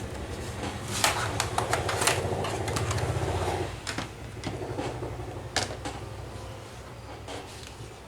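Sharp clicks and taps of tools and screws on a laptop's plastic case. For the first few seconds a small motor whirs steadily, then stops.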